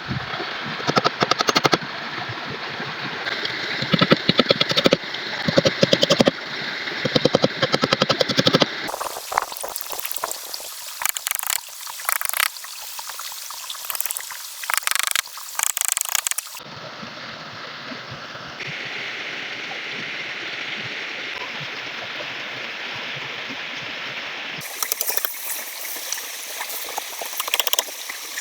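River water running steadily, with many sharp knocks and cracks from work on the shelter. The sound changes abruptly several times.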